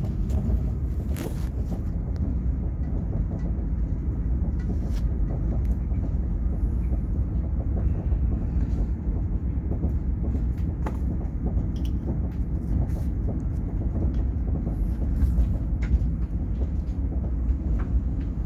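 Train running on its rails: a steady low rumble with scattered faint clicks.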